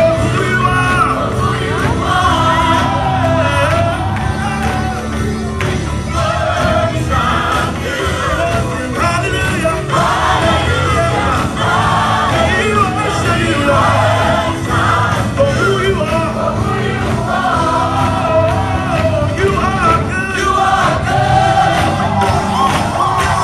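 Live gospel music: several voices singing over a band with a steady bass line, without a pause.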